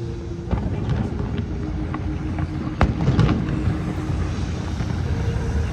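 Fireworks going off: scattered sharp bangs and crackles, the loudest crack a little under halfway through followed by a quick spatter of smaller pops, over a steady low rumble and a few held tones.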